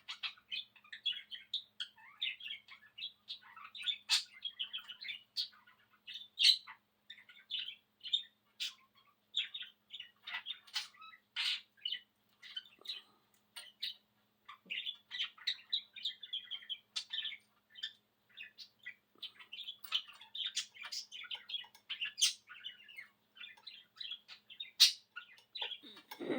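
Male budgie (budgerigar) chattering and warbling in a continuous stream of rapid high chirps, with a sharp click now and then.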